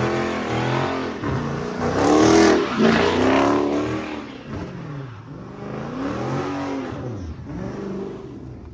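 Car engine revved hard again and again, its pitch rising and falling about six times, loudest a couple of seconds in and fading toward the end.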